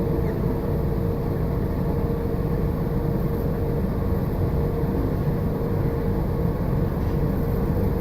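Steady rumble of a moving train heard from inside the carriage, with a constant hum running through it.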